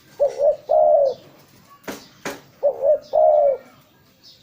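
Spotted dove (tekukur) cooing: two repeated phrases about two and a half seconds apart, each two quick notes followed by a longer, slightly falling coo. Two sharp clicks fall between the phrases.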